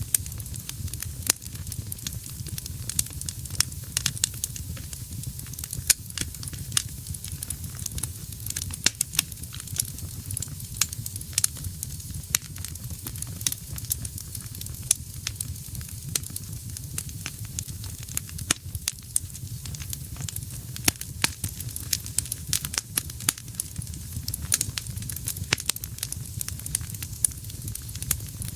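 Wood fire burning in a fireplace, with frequent sharp, irregular crackles and pops over a steady low rumble of flame.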